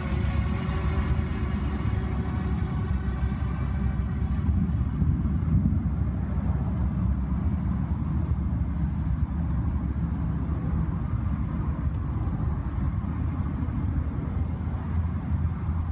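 Walkera QR X350 Pro quadcopter's motors and propellers humming in flight, faint and thinning over the first few seconds, under a steady low rumble.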